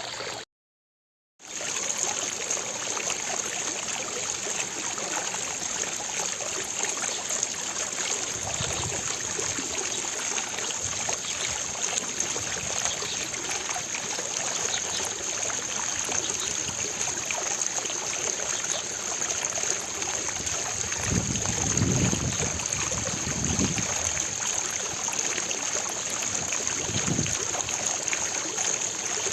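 Fountain water splashing steadily into its basin, an even rushing patter. The sound cuts out completely for about a second near the start, and a few short low rumbles come in later.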